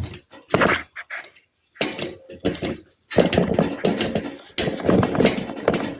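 Handling noise of a jammed Rinnai gas heater blower fan motor being worked by hand after its bushings were oiled: a few short knocks and rubs, then continuous rubbing and scraping from about halfway. The motor is stiff because dirt has got into its bushings.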